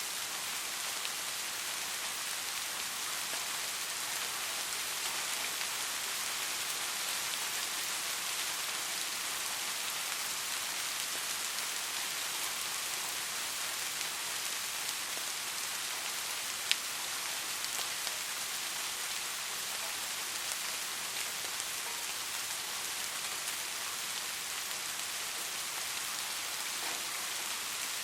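Steady rain falling, a dense even hiss of many drops, with one sharper single drop tick a little past halfway.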